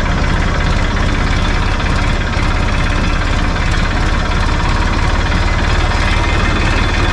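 Farm tractor's diesel engine running steadily with a fast, even low chug as it pulls a loaded trolley.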